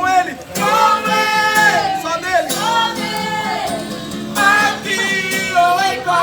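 Singing of a worship song, accompanied by guitar.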